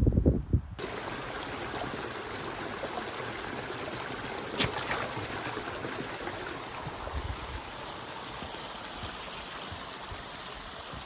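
Steady rush of flowing water, like a mountain stream. A brief knock comes about four and a half seconds in, after a few low thumps at the very start.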